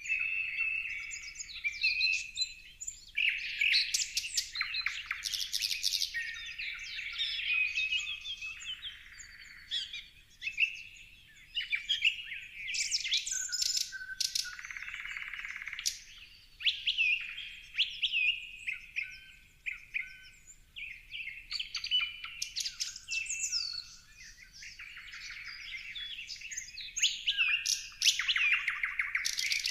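Several small songbirds singing and chirping at once: overlapping whistled phrases, short chirps and rapid trills, with a few loud trilling runs near the start and again near the end.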